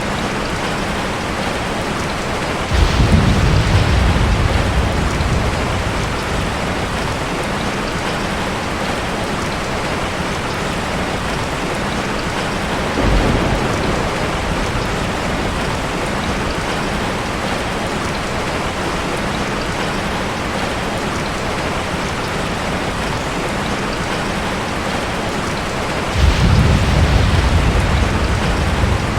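Steady rain falling, with three low rumbles of thunder: a strong one about three seconds in, a weaker one midway, and another strong one near the end.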